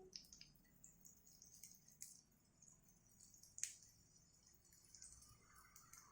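Near silence: quiet room tone with a few faint clicks and one sharper click about three and a half seconds in.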